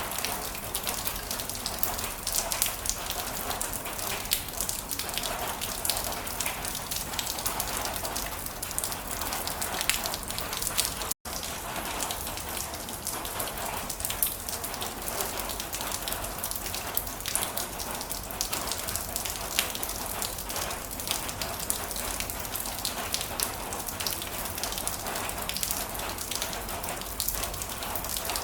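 Heavy rain falling steadily, a dense hiss of many separate drop hits. The sound cuts out for a split second about eleven seconds in.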